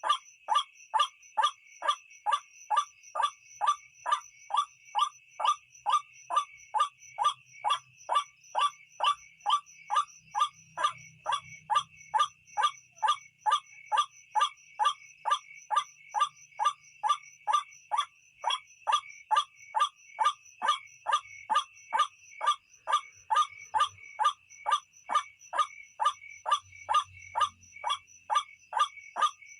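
White-breasted waterhen (ruak-ruak) call, a recording used as a night lure: short calls repeated evenly about twice a second, over a steady high insect drone.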